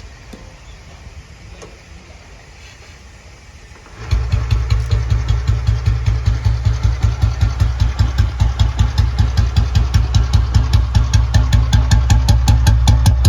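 Restored 1968 Royal Enfield Bullet Standard's single-cylinder engine starting about four seconds in, then idling with an even beat of about seven firing pulses a second.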